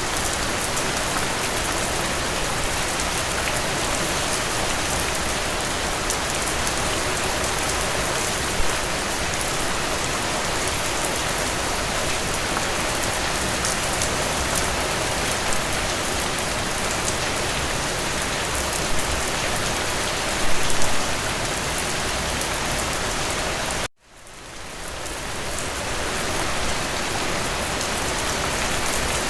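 Steady rain falling, a dense even hiss of drops with a few louder splashes. About 24 seconds in, the sound cuts out abruptly and fades back up to full over about two seconds.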